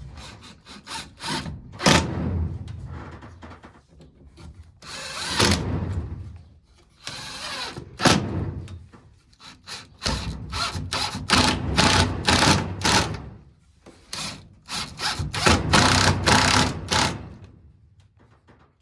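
A power drill running in repeated short bursts, with sharp clicks and knocks against wood between and within the runs.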